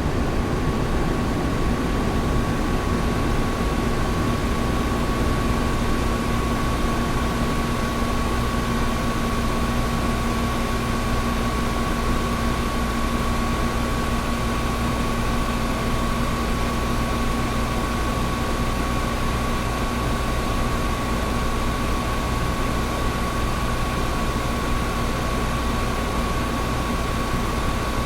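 Air conditioner running steadily: an even rush of air with a constant hum, including a high steady tone, and no change throughout.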